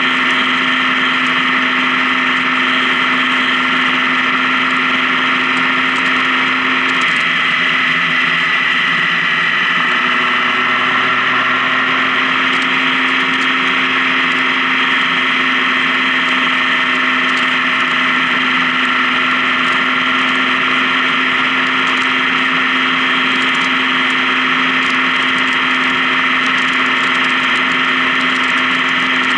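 Honda Gold Wing touring motorcycle running at a steady cruise on the highway, its engine hum and road and wind noise holding even. The engine note shifts briefly about seven seconds in, then steadies again.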